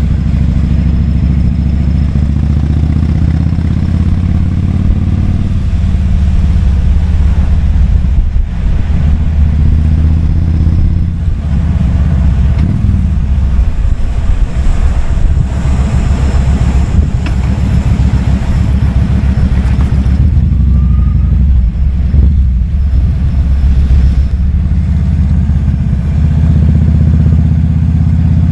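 Kawasaki Vulcan 2000's big V-twin engine running under way, a deep, steady note that rises and falls several times as the throttle is opened and eased.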